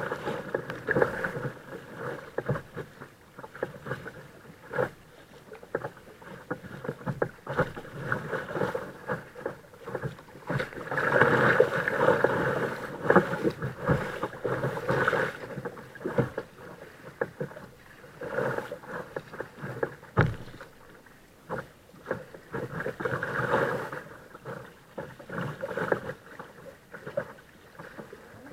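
Kayak paddling: the paddle blades dipping and splashing, with water slapping and knocking against the hull in irregular bursts, louder for a few seconds midway through.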